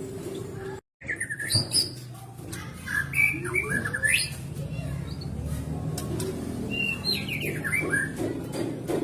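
White-rumped shama singing: short, quick phrases of rising and falling whistled notes, three bursts with pauses between, after a brief dropout in the sound about a second in.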